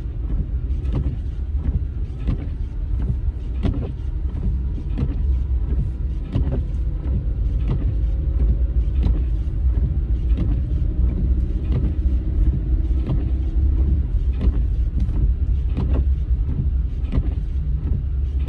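Car driving on a snowy road, heard from inside the cabin: a steady low rumble of road and engine noise with frequent short clicks and knocks.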